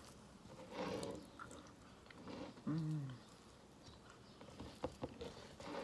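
Close-up eating sounds: chewing and lip smacking, with a short hummed "mmm" of enjoyment about three seconds in and a few small mouth clicks near the end.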